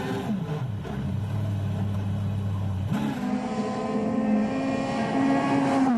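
Rally car engine from the WRC stage footage. The revs drop in the first half second and run low for about two seconds, then jump sharply about three seconds in and hold high, climbing slowly as the car accelerates.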